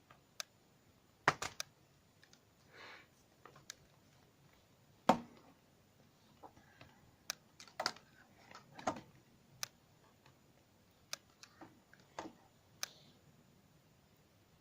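Hands handling Blu-ray packaging: irregular sharp plastic clicks and taps, with a few brief soft rustles. The loudest knock comes about five seconds in.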